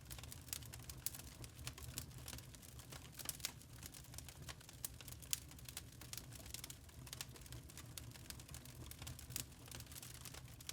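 Wood fire crackling in a fireplace: many small sharp pops and snaps at irregular intervals over a faint low rumble of the burning.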